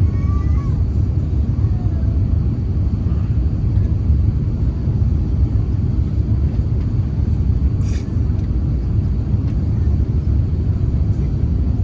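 Steady low rumble inside the cabin of an Airbus A350-900 with Rolls-Royce Trent XWB engines, from the aircraft rolling on the ground after landing. Faint short wavering cries sound over it near the start, and a single sharp click comes about eight seconds in.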